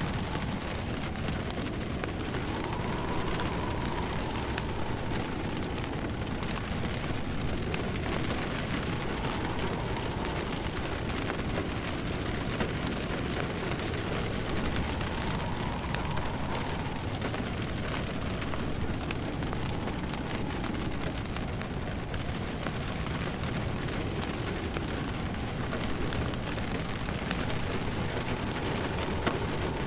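Steady rain mixed with the crackle of a wood fire in a fireplace, with a faint wind howl rising and falling every few seconds.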